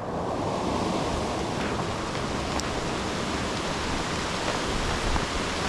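Steady hiss of heavy rain falling, an even wash of noise with no let-up.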